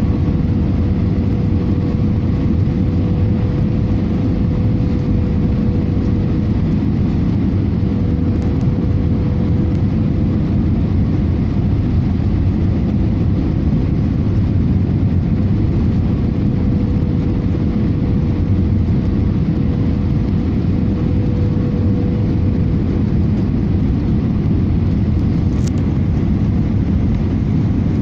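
Airbus A318 airliner cabin noise in flight: a steady low rumble of engines and airflow, with a constant faint hum.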